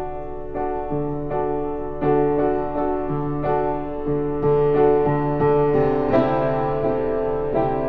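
Piano music, notes struck at an even, unhurried pace over a held low bass note.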